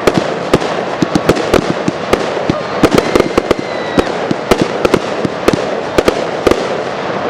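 Aerial fireworks going off in quick succession: rapid, irregular bangs, several a second, over a continuous crackle.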